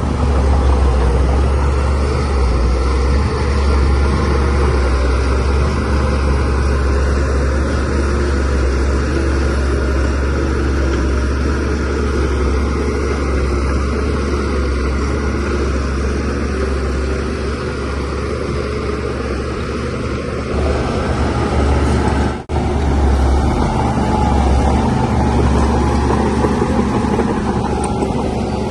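Diesel engine of a DH17C3 Pro bulldozer running steadily under work, with a deep low rumble. The sound drops out for an instant about three-quarters of the way through.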